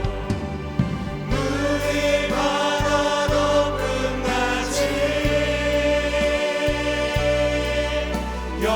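Contemporary Korean worship song between sung lines: the band plays on under choir-like held voices, with no lyrics sung.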